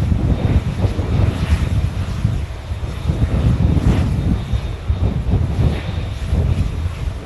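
Passenger aircraft engines running at high power, a deep, steady rumble heard from the ground.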